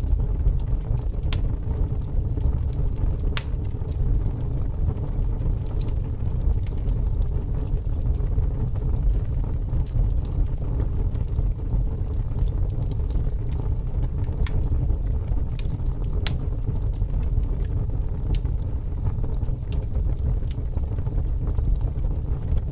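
Fire burning, with a steady low rumble and scattered sharp crackles and pops.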